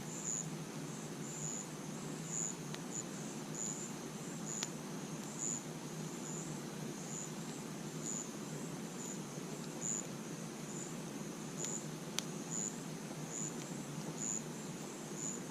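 Crickets chirping in a steady high pulse, about one to two chirps a second, over the low rush of a campfire, with a few sharp pops from the fire.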